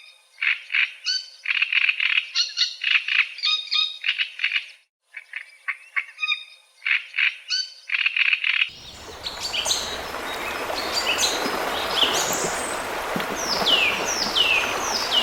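Rapid, repeated animal calls, then from about nine seconds in, birds chirping in short falling notes over a steady rushing background noise.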